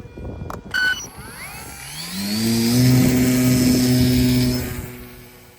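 RC model plane's motor spooling up: a whine that rises in pitch, holds steady and loud for about two seconds, then fades away near the end. A short click and beep come about a second in, before the motor starts.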